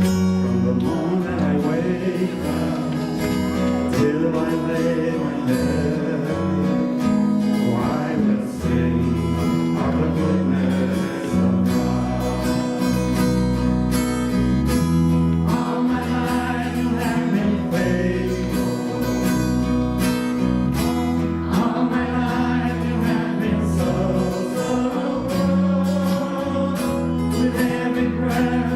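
Live worship music led by acoustic guitar, with a steady bass and singing voices at times.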